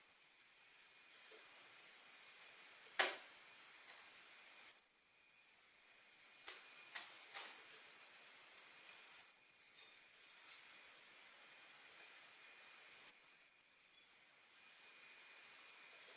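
Orange-headed thrush (anis merah) giving its thin, high 'ngecis' call: four short whistles falling in pitch, one every four to five seconds. A call that bird-keepers use to lure a male into calling back. Under the whistles run a steady high pulsing tone and a few faint clicks.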